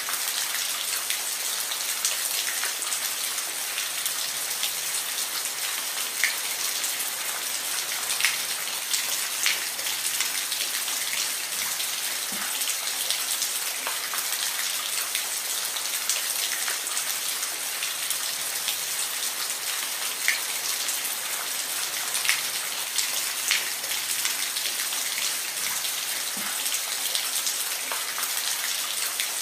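Steady rain with a dense hiss and scattered sharper drops striking a surface.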